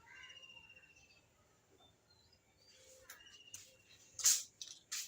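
Faint, thin chirping in outdoor ambience, then a few short hissing noises from about three seconds in, the loudest about four seconds in.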